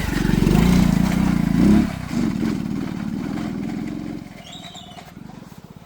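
An engine running with an even low pulse, loudest in the first two seconds and fading away from about four seconds in.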